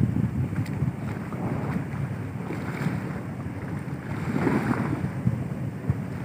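Wind buffeting the microphone in uneven gusts, over a low rushing of sea water around a ship.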